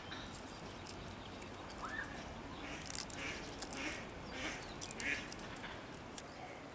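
Ducks quacking: a handful of short, raspy quacks in a loose series over a couple of seconds, starting about two and a half seconds in.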